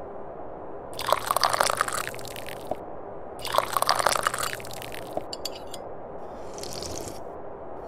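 A person sipping hot tea from a cup: two loud slurps, then a few small clicks and a fainter sip near the end.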